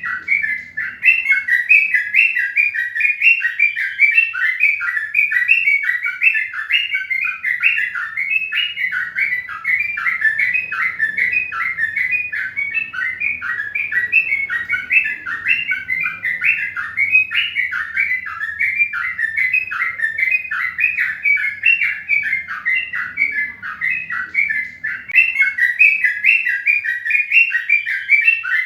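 Birds chirping continuously: a dense, unbroken stream of short, rapid chirps.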